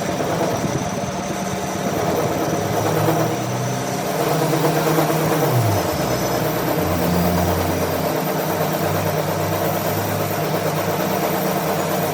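A motor or engine running steadily, its low pitch sliding down about halfway through and then holding a deep steady hum.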